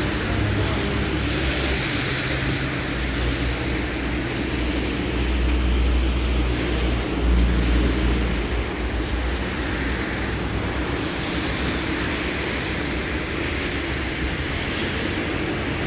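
LiAZ-6213.65 articulated city bus running with a steady low engine hum and rumble, heard from on board; the hum swells slightly about halfway through.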